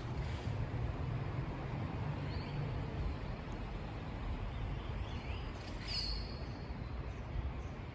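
Steady low rumble of a Boeing 737-800 jet airliner at cruising altitude. A few short bird chirps come over it, twice, the louder one near the end.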